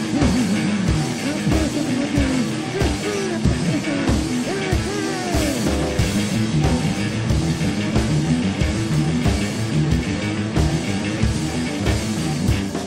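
Rock band music with electric guitar over a steady drum beat, and a pitched line sliding up and down above it.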